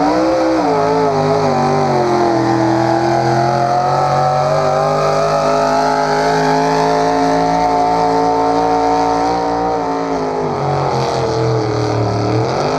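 Engine of a pulling vehicle running hard at high revs under load as it drags the weight sled. The pitch dips briefly at the start, holds nearly steady, sags a little about ten seconds in, then climbs again near the end.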